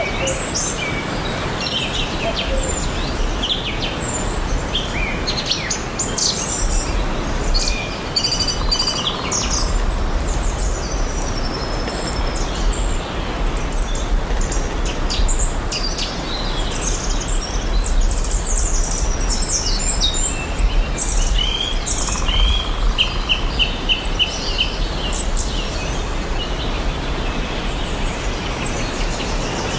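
Several songbirds chirping and singing, with a quick run of repeated notes a little past two-thirds of the way through, over a steady background hiss and low rumble.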